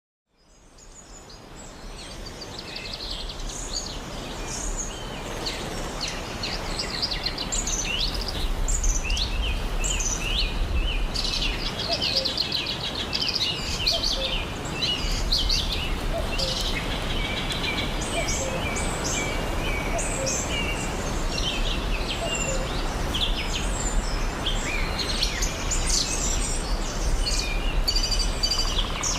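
A chorus of many birds chirping and trilling, with overlapping short calls throughout, over a steady low rumble. It fades in over the first few seconds.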